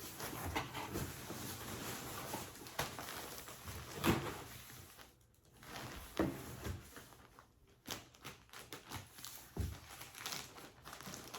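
Quiet handling of packages: scattered rustles and short knocks, with a louder knock about four seconds in.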